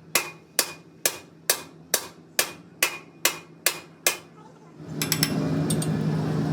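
Hammer striking metal in a steady rhythm, about ten ringing blows at roughly two a second, stopping about four seconds in. A steady noise with a low hum takes over about five seconds in.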